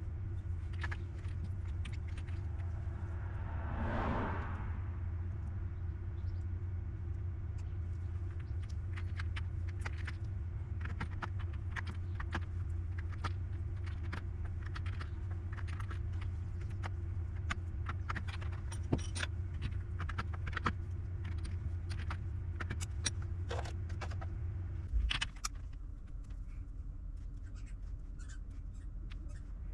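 Many small clicks and taps of cylindrical lithium-ion battery cells being handled on a workbench while they are checked one by one, over a steady low hum that drops in level about 25 seconds in.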